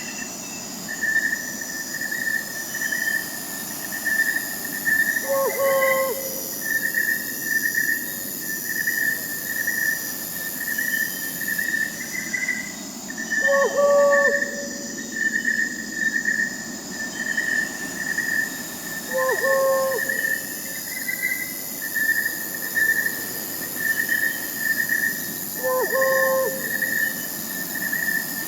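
A night-time insect chorus of crickets, trilling in steady pulses, with higher insects buzzing above it. Over it, an owl gives a short hoot four times, about six seconds apart.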